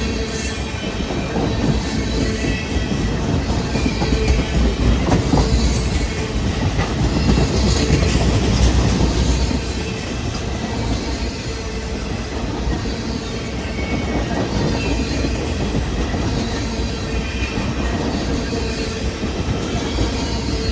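Union Pacific freight train rolling past, its wheels clacking steadily over the rail joints.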